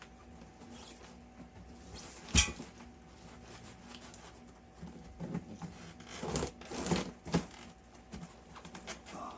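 Handling noise from unpacking a window air conditioner: one sharp knock a couple of seconds in, then a run of lighter knocks and rustling of the box and packing between about five and seven and a half seconds.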